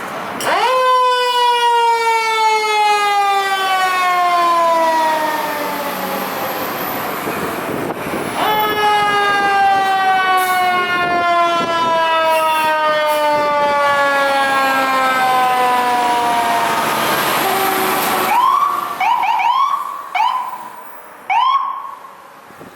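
Fire apparatus siren wound up twice, each time rising quickly to a high wail and then falling slowly over several seconds, the long wind-down of a mechanical siren. Near the end come a handful of short, rising whoops.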